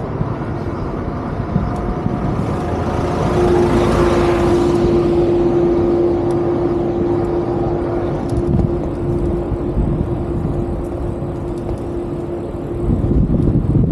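City street traffic: a vehicle passes close by about four seconds in, and a steady hum holds for most of the stretch before stopping near the end.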